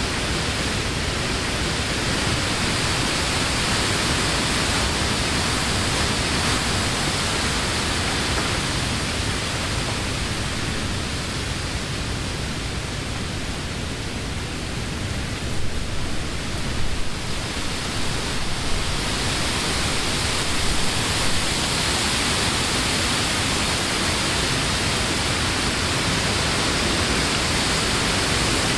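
Wind blowing through trees, a steady rush of rustling leaves. It eases slightly about halfway through, then picks up again with a few brief gusts.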